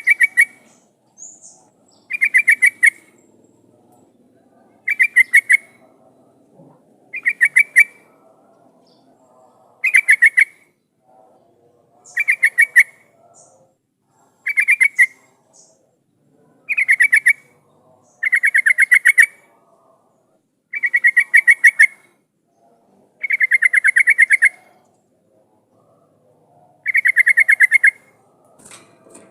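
Yellow-vented bulbul (trucukan) singing: short, bubbly phrases of rapid notes, repeated about every two to two and a half seconds, a dozen in all, the later ones a little longer. It is the lively 'gacor' song used as a lure call to set other bulbuls answering.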